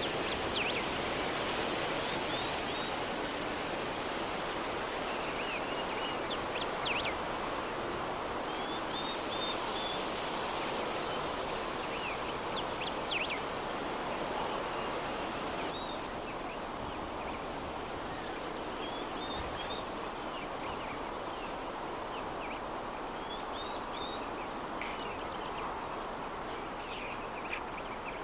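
Soft, steady breeze hiss with small birds chirping in short quick runs every few seconds.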